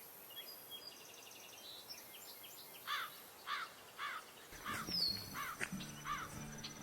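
A bird calling: a brief high trill, then a run of short, repeated call notes about two a second. Low steady tones of background music come in past the middle.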